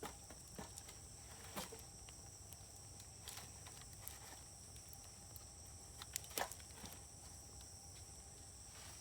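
Wood fire crackling, with scattered sharp pops; the loudest come as a quick pair about six seconds in.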